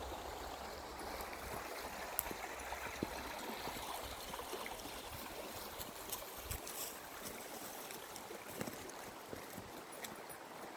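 River water rushing steadily, with a few light clicks scattered through it.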